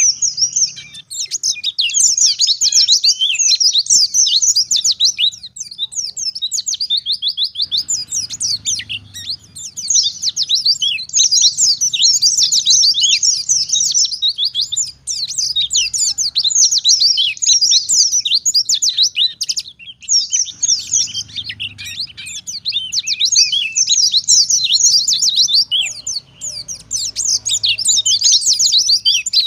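White-eye (pleci) singing a fast, continuous twittering song of rapid high chirps, in long phrases broken by brief pauses.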